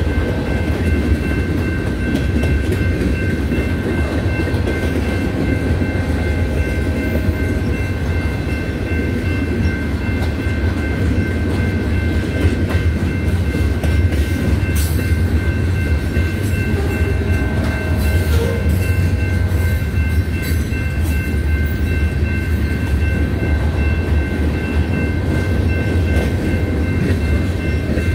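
Cars of a mixed freight train rolling past close by: a steady rumble of steel wheels on rail with clickety-clack over the rail joints. Sharper clanks come about 15 and 18 seconds in, and thin steady high tones run through it.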